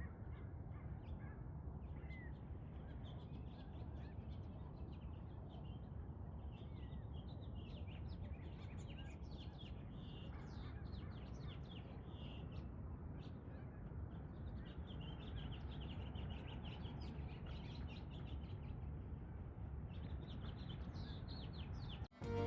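Many birds chirping and calling in quick, overlapping short notes over a low steady outdoor rumble.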